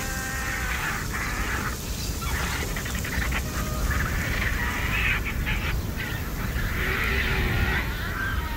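Harsh animal calls, irregular squawks and hiss-like cries, over a steady low rumble.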